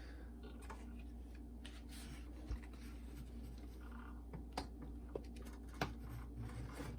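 Faint, scattered clicks and taps of plastic parts being handled as a boombox's cassette deck is turned over and fitted, over a steady low hum.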